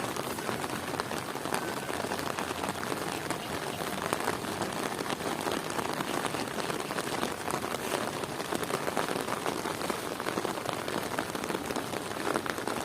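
Steady rain falling, a dense, even patter of countless drops hitting surfaces.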